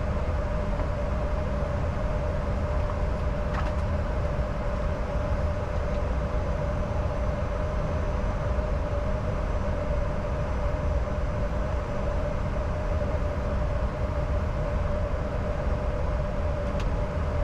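Cockpit noise of a Bombardier Challenger 605 business jet in flight: a constant rush of airflow and engine noise with a steady hum running through it.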